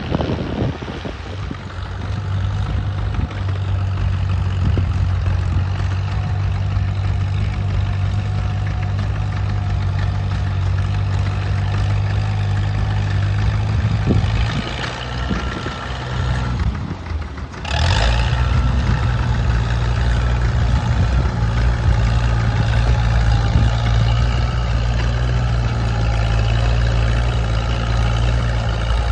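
Antique farm tractor engine running steadily under a plow. About seventeen seconds in the sound drops away briefly, then comes back louder.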